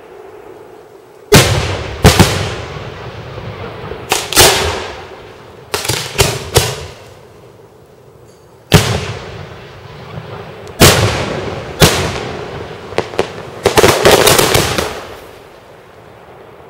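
Fireworks display: loud, sharp bangs of bursting fireworks, some single and some in quick clusters of two to four, each dying away over a second or so, with a dense run of bursts near the end.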